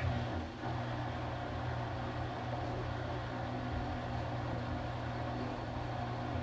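Washing machine kicking in suddenly and then running with a steady mechanical hum, rising a step about half a second in.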